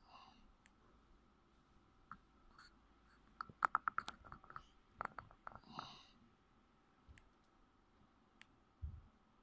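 Faint clicks and taps over a quiet background, with a quick run of about eight clicks a little over a third of the way in, a few more around the middle, scattered single clicks and a short low thump near the end.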